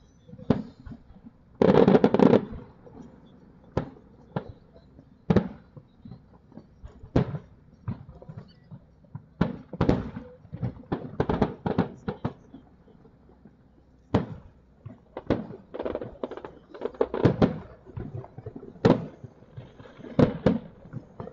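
Aerial firework shells bursting: irregular sharp bangs, at times several a second, with a dense cluster of bangs about two seconds in.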